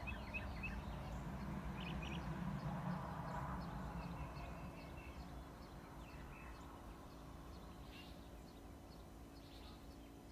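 Faint rural outdoor ambience: scattered short bird chirps over a low rumble that fades away over the first few seconds.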